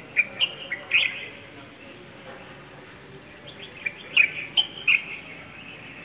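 Small birds chirping: short, sharp chirps in two quick clusters, one in the first second and another about four to five seconds in.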